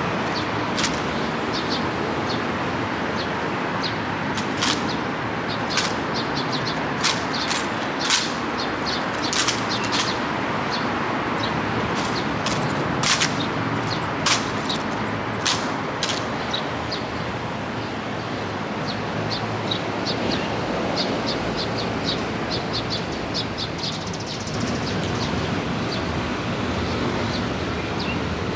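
Steady hiss of rain with irregular sharp taps and clicks, loudest in the first half and turning to faint, finer ticks later on.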